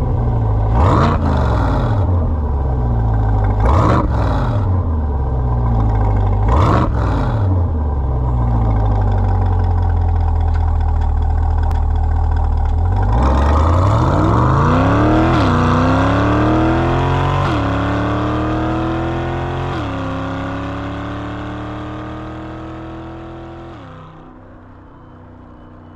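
Chevrolet C8 Corvette Stingray's V8 through an AWE Touring Edition stainless cat-back exhaust: three quick throttle blips from idle, a few seconds of steady idle, then the car pulls away, accelerating hard through three upshifts as the sound fades into the distance and cuts off.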